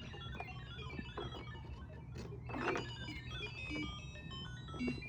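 Guitar played through a Behringer Virtualizer effects processor's ring modulator, set to sine wave, into a Spark Mini amp: a string of short electronic bleeps jumping at random in pitch, R2-D2-like.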